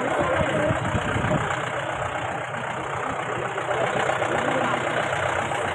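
Mahindra Bolero's engine running as it drives over a rough off-road hill track, with a steady rumble and some jolts in the first second or so.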